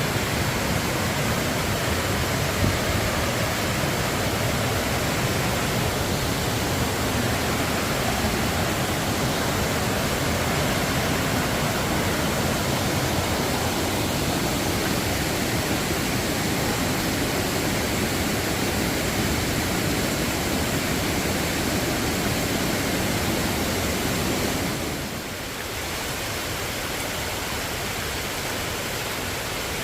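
Steady rush of a waterfall, dropping a little in level near the end.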